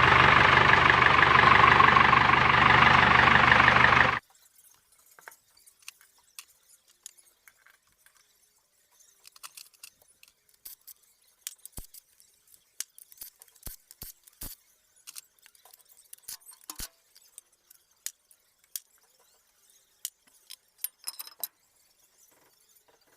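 An engine running steadily for about four seconds, then cutting off abruptly. After that come faint, scattered metallic clicks and clinks, like tools and parts being handled.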